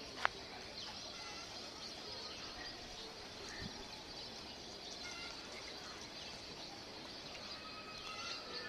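Small birds chirping now and then, in short high notes, over a steady outdoor background hiss. There is a sharp click near the start.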